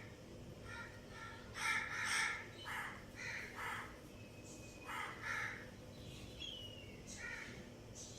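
Budgerigars chirping and chattering: a string of short, harsh calls, loudest about two seconds in, with a thin gliding whistle later on.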